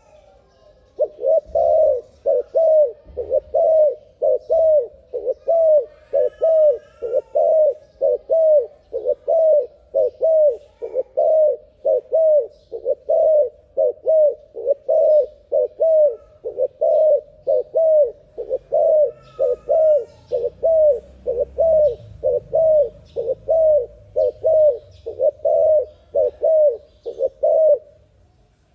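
A dove cooing in a fast, even series of short notes, about two a second, starting about a second in and stopping just before the end. A fainter higher chirp from another bird shows up twice.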